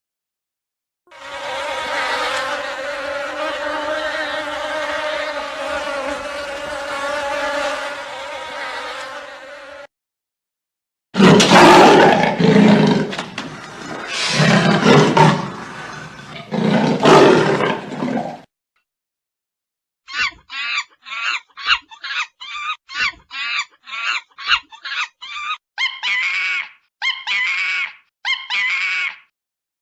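A run of separate animal-sound clips: a steady insect buzz for about nine seconds, then several loud animal roars, then a quick series of short pitched calls, about two to three a second.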